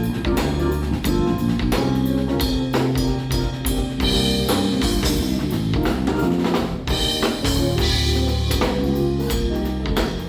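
Live jazz-fusion trio of keyboards, bass and drum kit playing, with a steady beat of snare and bass drum under sustained bass notes and keyboard chords.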